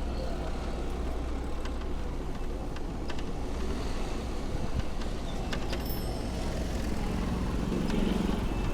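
Steady street traffic noise with a low rumble and a few faint clicks; a vehicle swells louder near the end.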